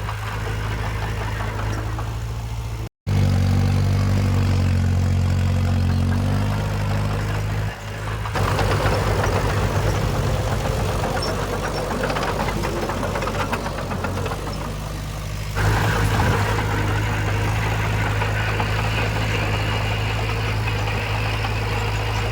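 Diesel engines of earthmoving machines running in several clips cut together. The sound drops out briefly about three seconds in and changes abruptly about eight and fifteen seconds in, with a rougher, busier stretch in between.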